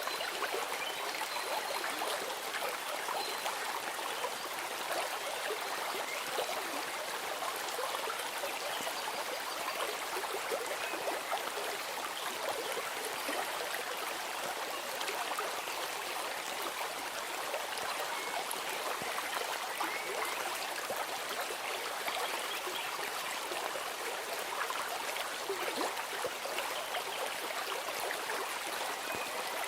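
A stream of running water, trickling steadily.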